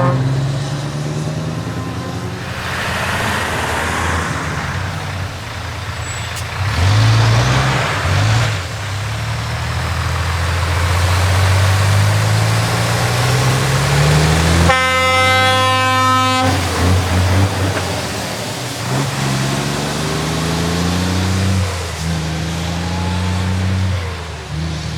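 Heavy diesel trucks with open, straight-piped exhausts driving past one after another, their engines rising in pitch as they accelerate. About fifteen seconds in, an air horn sounds for roughly two seconds.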